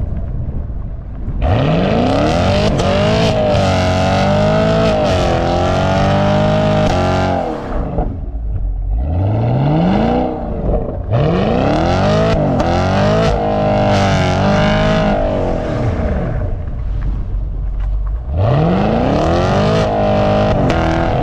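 V8 muscle car engine revved hard through a burnout: it climbs quickly to high revs and holds there, wavering for several seconds at a time, three long pulls and one short one between. Spinning tyres hiss under it.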